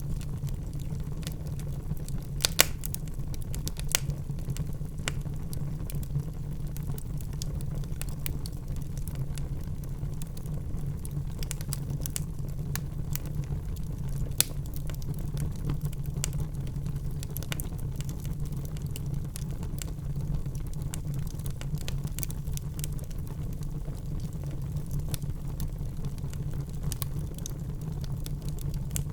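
Wood fire burning in a fireplace: a steady low rumble of the flames with scattered sharp crackles and pops from the logs, a few louder snaps about two and a half, four and fourteen seconds in.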